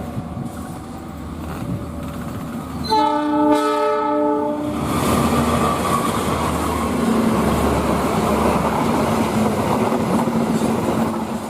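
Diesel-hauled passenger train sounding its horn once, a single blast of about a second and a half, then running past close by with a loud, steady rumble of wheels on the rails.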